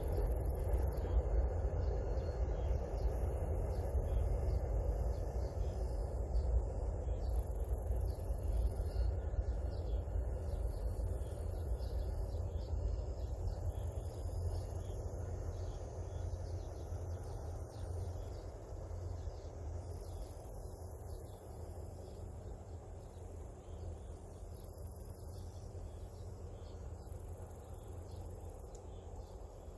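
Low rumble of a Mugunghwa-ho passenger train rolling across a long steel railway bridge, slowly fading as it draws away. High insect buzzing rises and falls every couple of seconds over it.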